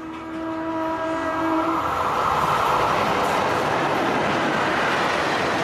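A train horn sounds a steady chord that cuts off about two seconds in. Meanwhile the rumble of a train running past builds up and stays loud.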